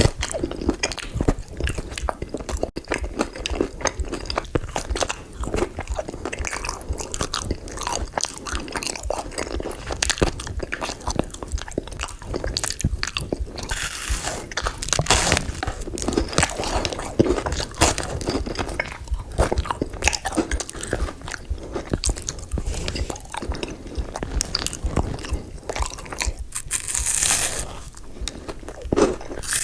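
Close-miked eating: crunchy bites and chewing of sweet food, as a dense, irregular run of crackles and clicks, with louder crunches about halfway through and near the end.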